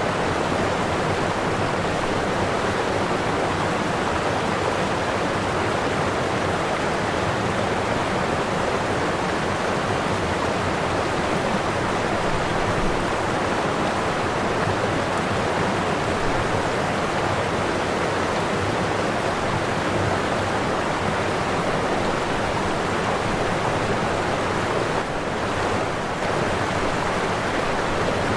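Waterfall: a steady rush of falling water with no break, dipping slightly for a moment about three seconds before the end.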